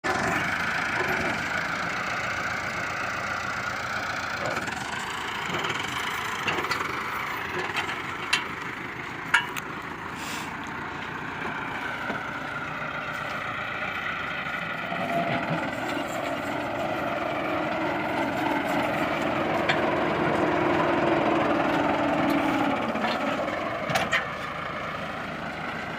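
Tractor engine running a wheat thresher, a steady mechanical drone whose pitch drifts up and down as the load changes, with a few sharp knocks.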